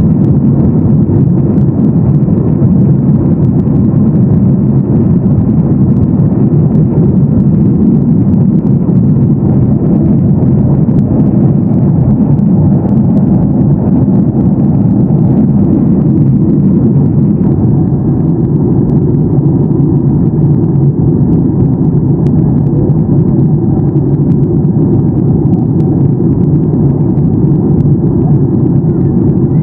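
Steady, loud cabin noise of a Boeing 737-800 in flight: the low rush of airflow and CFM56 jet engines heard from a window seat in the rear cabin.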